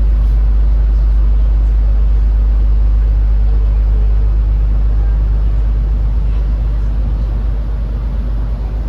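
Steady, deep engine rumble with a noisy hiss above it, easing slightly near the end.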